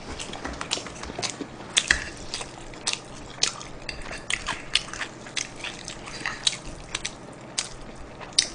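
Close-miked chewing and biting, with wet mouth clicks and smacks coming several times a second at uneven spacing.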